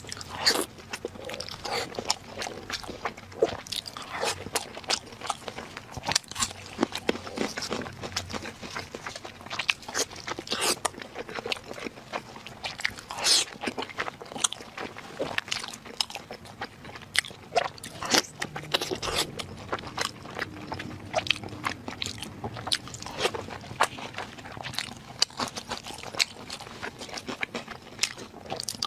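Close-miked eating: a person biting and chewing food, with many sharp crunches coming irregularly, a few each second.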